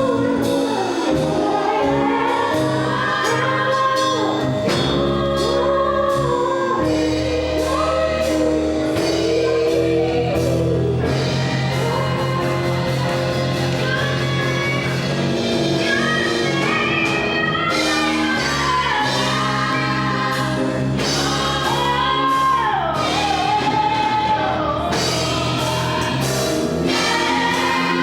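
Gospel song: singing over instrumental accompaniment with sustained bass notes.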